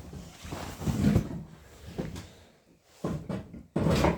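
Irregular knocks and clunks of metal parts and tools being handled on a car during engine removal, the loudest a rattling clunk near the end.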